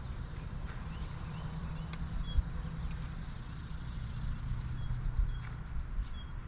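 A steady low engine hum, with birds chirping in short high notes, more often in the second half. A sharp knock comes about two and a half seconds in.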